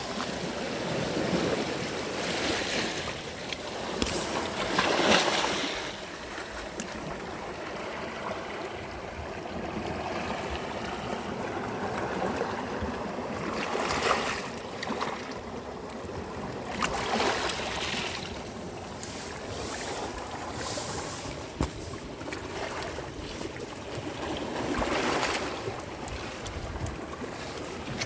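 Sea waves washing in on a sandy beach, a steady wash of water that swells with each breaking wave every few seconds, loudest about five seconds in.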